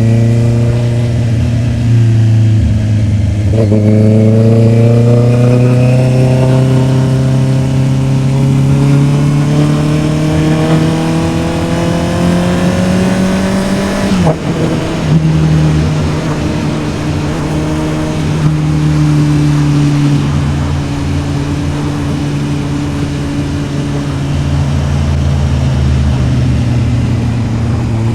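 Honda CB650R's inline-four engine under way: its note climbs slowly as the bike accelerates, with a short dip about three seconds in and a sharp break about halfway, where a gear change drops the pitch, after which it holds steady and sinks gently.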